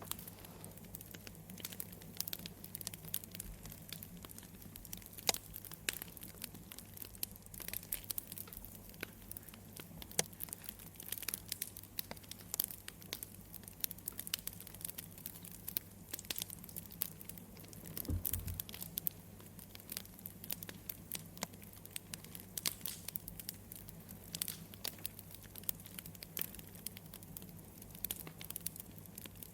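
Wood fire crackling, with irregular sharp pops and snaps over a steady low rumble, and one brief low thump about eighteen seconds in.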